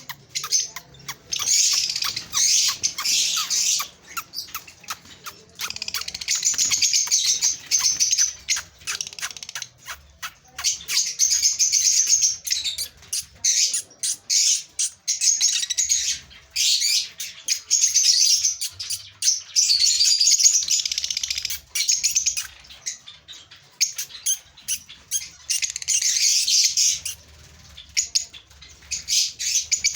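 Cage birds chirping and chattering in rapid, shrill bursts of a second or two, one after another, with short sharp clicks in between.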